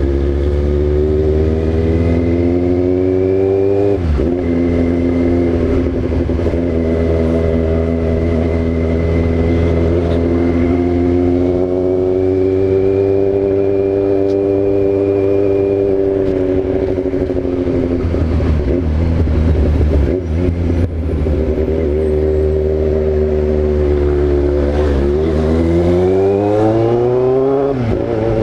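Yamaha XJ6's 600 cc inline-four engine running under way, its pitch rising and falling with the throttle. There is a gear change about four seconds in and another near the end.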